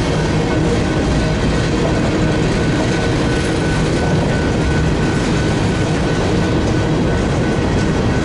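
Freight train of covered grain hopper cars rolling past, a loud steady rumble of steel wheels on the rails, with a faint steady high whine above it.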